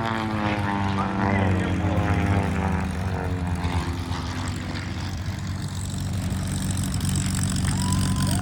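Propeller-driven airplane flying past, its engine note falling in pitch over the first few seconds as it goes by, over a steady low engine drone.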